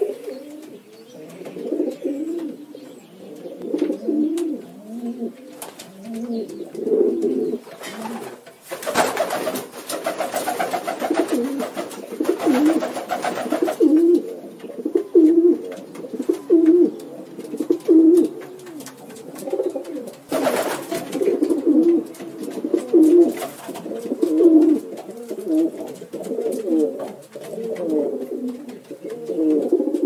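A flock of domestic pigeons cooing, the low coos overlapping and following one another, about one a second through the middle stretch. A louder rushing noise joins in for a few seconds about nine seconds in and again briefly around twenty seconds in.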